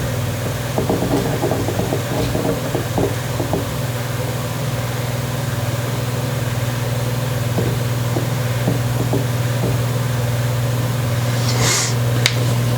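A steady low mechanical hum, with scattered light clicks and taps. A short rush of noise and a few sharp clicks come near the end.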